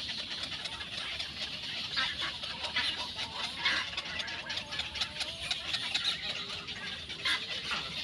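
Birds calling in short clucking notes, with a few sharp calls standing out and a wavering call about midway, over a steady high hiss.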